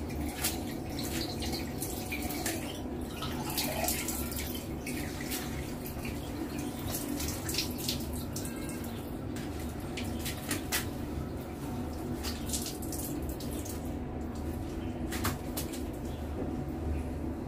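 Running water splashing during a dog's bath, with frequent small splashes and drips.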